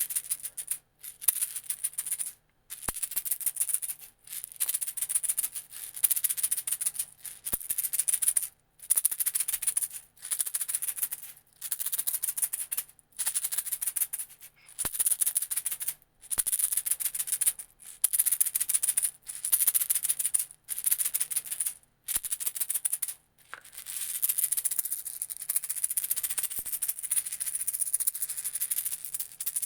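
A small hand rattle shaken in short spells of about a second each with brief pauses between, then shaken without a break near the end. It makes a fast, dry, hissing shake.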